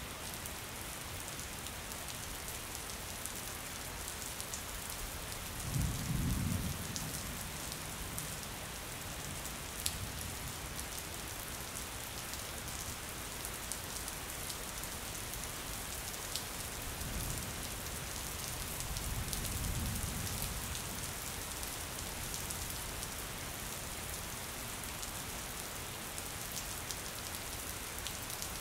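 Steady rain falling on a window pane, with occasional sharper drop ticks. Thunder rumbles low and briefly about six seconds in, and a longer, swelling roll of thunder comes just past the middle.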